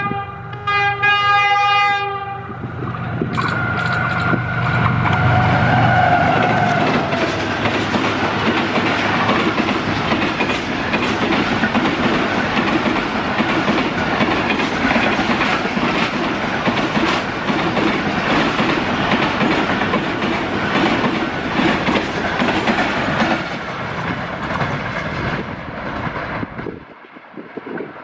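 A GEU-40 diesel-electric locomotive sounds its multi-note horn as it approaches at speed, the horn breaking off briefly just after the start and ending about two seconds in. A shorter held horn note and the deep drone of the diesel engine follow as the locomotive passes. Then a long train of passenger coaches rushes past with a steady roar of wheels and clickety-clack on the rails.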